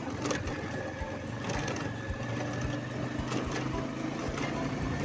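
Motorcycle engine running at a steady pace while riding, with scattered short knocks and clatters over the engine note.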